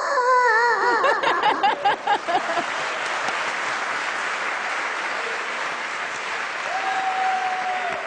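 A person imitating a small child crying, a wavering wail for about two seconds, followed by audience applause.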